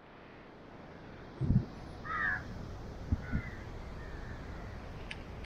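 A bird calling several times in short, falling calls, loudest about two seconds in, over a steady outdoor hiss. A low thump comes about a second and a half in, and two short knocks near three seconds.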